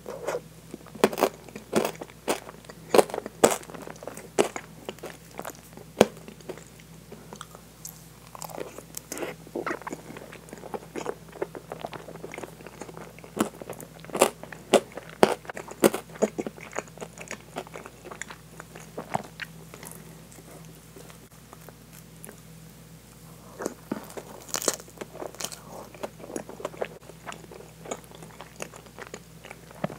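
Close-miked chewing of very soft French toast with whipped cream: wet, sticky mouth sounds and sharp clicks, coming in busy runs with short lulls between.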